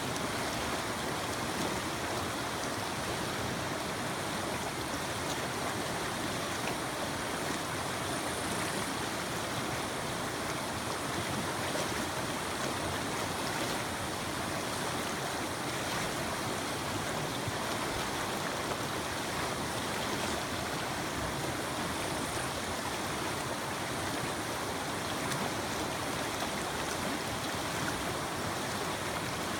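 Mountain creek flowing: a steady rush of water with no change.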